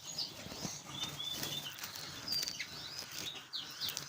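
Small caged finches chirping with short high calls and quick falling notes, with wing flutters and small clicks as they move about the flight.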